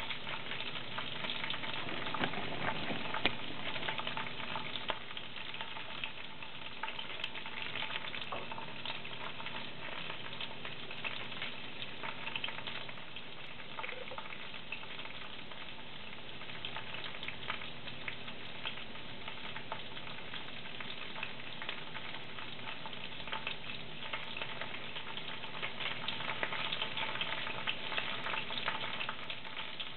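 Raw ground pork sizzling and crackling in hot oil in a wok over chopped garlic. It starts sharply as the meat goes in, is loudest for the first few seconds, settles to a steady sizzle and swells again near the end.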